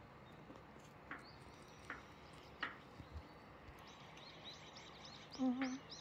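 Faint small-bird chirps: a few scattered high calls, then a quick run of short chirps over the last two seconds. A short burst of a woman's voice comes near the end.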